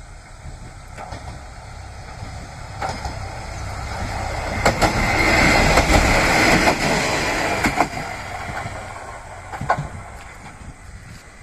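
Diesel train on the Yodo Line passing by, building to its loudest about halfway through and then fading. Several sharp clicks come as the wheels cross rail joints.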